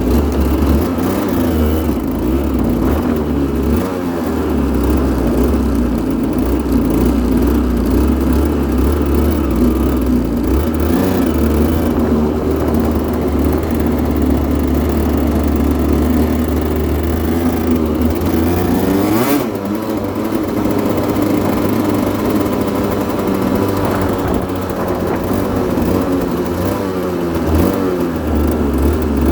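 Aprilia RS125's 125 cc single-cylinder two-stroke engine running steadily, with a brief change in note about two-thirds of the way through.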